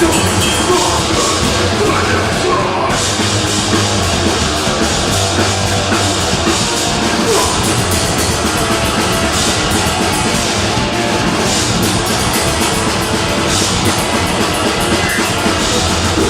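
Deathgrind band playing live: distorted guitars and fast, dense drumming at a constant high level.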